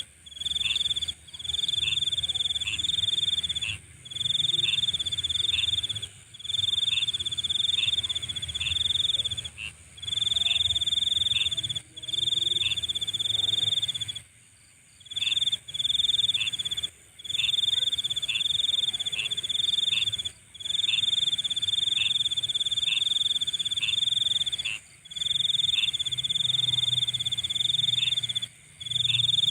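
Night insects calling: a high cricket-like trill in bouts of one to two seconds, broken by short gaps, over a faint low hum.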